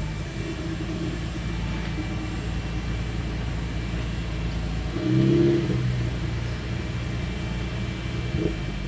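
2014 Chevy Camaro's 3.6-litre V6 running through single-chamber V-tube mufflers and a true X-pipe. It idles steadily, gives one short rev about five seconds in, and settles back to idle.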